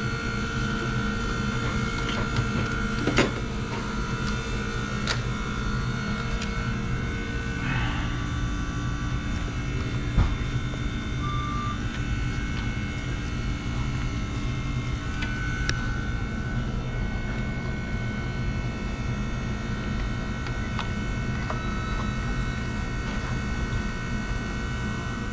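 A steady mechanical hum with several steady tones running through it, broken by a few light clicks and knocks of handling.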